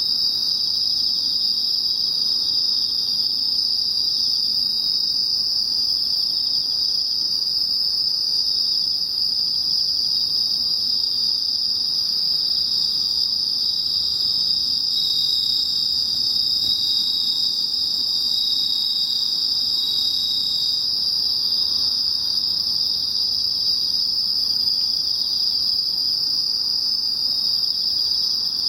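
Chorus of autumn crickets, bell crickets (suzumushi) and field crickets (korogi) among them, singing a continuous high-pitched trill. A second, slightly lower singer comes up more strongly for several seconds around the middle.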